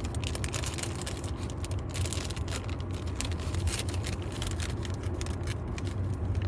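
Plastic candy pouch being handled and opened, with irregular crinkling and crackling throughout, over a steady low hum.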